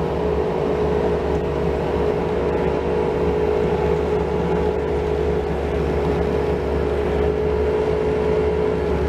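An engine running steadily at an even speed, with a constant hum and a steady higher tone over it.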